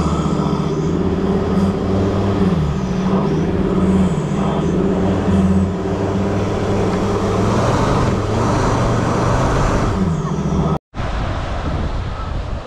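4WD engine running as it drives along a sandy beach, its note rising and falling with the revs. It cuts off suddenly near the end, leaving wind and surf.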